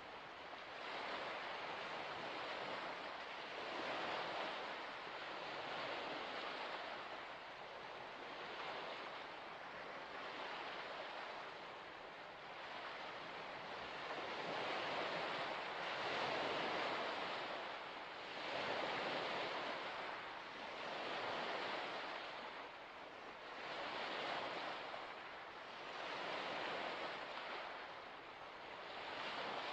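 Small waves washing onto a shore, each swelling and falling away, about one every two to three seconds.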